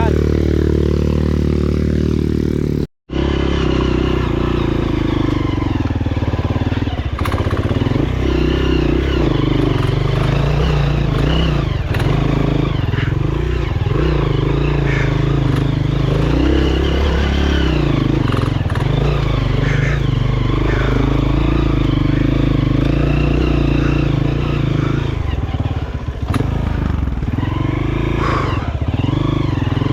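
Honda CRF230F's single-cylinder four-stroke engine running under load, its pitch rising and falling with the throttle. The sound cuts out for an instant about three seconds in.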